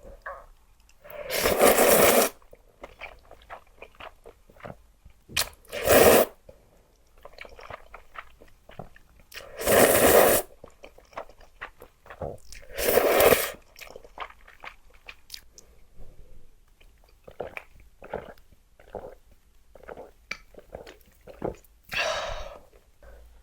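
Close-up eating of spicy luosifen rice noodles: five loud slurps of noodles, each lasting a second or two, with wet chewing and small crunching clicks in between.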